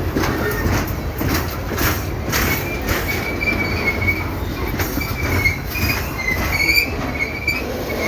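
Freight train wagons rolling past, the wheels squealing in wavering high tones over a steady rumble, with short clacks from the wheels over rail joints.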